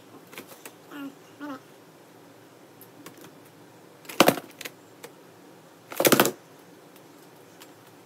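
Two short hummed vocal sounds about a second in. Then a sharp knock about four seconds in and a louder, slightly longer clatter around six seconds, from a phone being handled and set down on a tabletop.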